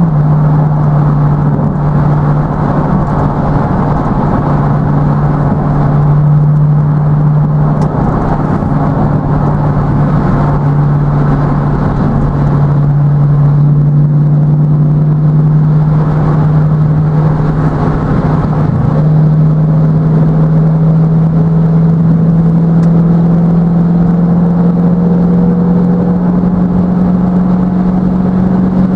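Chevrolet V8 engine droning steadily at autobahn cruising speed, with road and tyre noise beneath. The drone rises slowly in pitch over the second half as the car gains speed.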